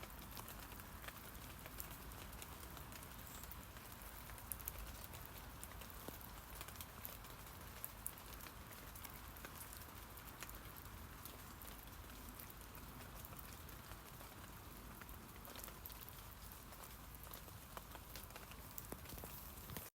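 Steady light rain falling on tree leaves, a soft constant patter with many scattered individual drop ticks.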